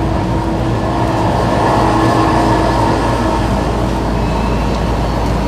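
Singapore MRT electric train running, a steady rumble with a faint steady hum over it.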